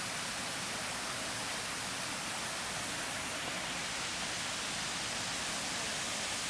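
Running water rushing steadily: an even, unbroken hiss.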